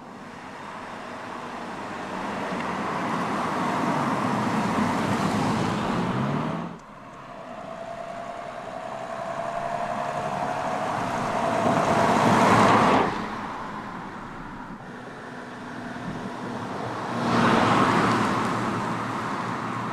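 Cars driving past, in three separate shots. The first swells and cuts off abruptly about seven seconds in. A second rises to a peak around twelve seconds, with a faint steady whine under it. A third swells near the end.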